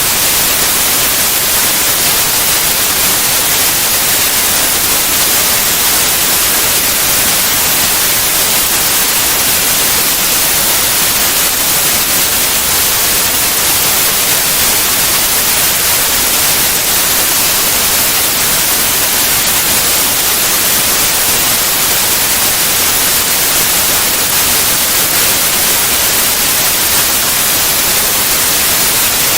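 White noise: a steady, even hiss that covers all pitches, brightest in the treble, with no change throughout.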